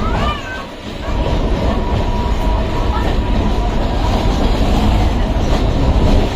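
Electric suburban train (EMU) running along the track: a loud, steady rumble of wheels and rails, with a brief rising-and-falling squeal in the first half second.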